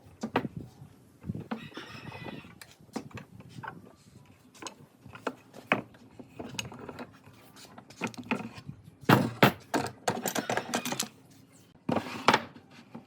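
Irregular knocks, clicks and clatter of wood pieces and hand tools being handled and set down, with a burst of several sharp knocks about nine seconds in.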